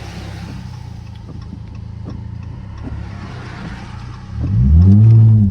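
Straight-piped car exhaust droning steadily at low revs over the hiss of tyres on a wet road. About four seconds in it revs up sharply and loudly, then drops back, as the throttle is stabbed to make the rear end break loose and slide.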